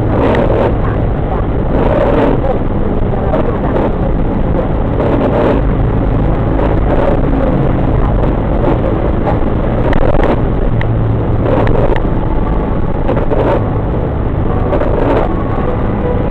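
Car driving on a highway: steady road and engine noise, with a few brief sharper sounds scattered through it.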